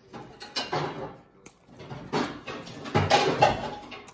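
Close-up chewing of a bite of crispy breaded teriyaki chicken: several loud crunching bursts, the loudest about three seconds in.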